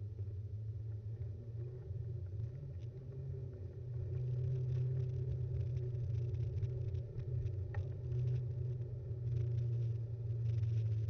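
Btwin Rockrider 5.1 mountain bike being ridden, heard through an action camera mounted on the bike: a steady low rumble from the tyres and frame vibration, with a few small clicks and rattles. The rumble gets a little louder about four seconds in.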